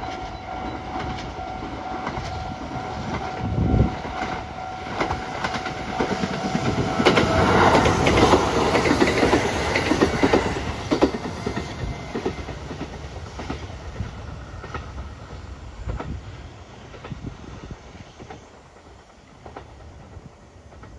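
Kintetsu three-car local electric train approaching and passing close by, its wheels clacking over the rail joints. It builds to its loudest near the middle, then fades steadily as it moves away.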